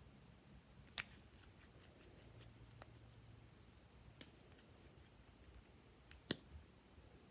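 Slime being worked by hand, giving sharp sticky clicks and pops: three louder ones, about a second, four seconds and six seconds in, with a quick patter of fainter crackles in the first few seconds.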